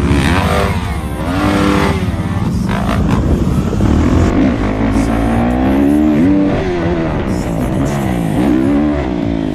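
Motorcycle engines revving, their pitch rising and falling again and again over a steady low rumble.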